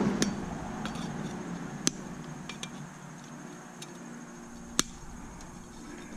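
Scattered metallic clinks and taps of hand tools working on stainless steel parts, with two sharper clanks about two and five seconds in.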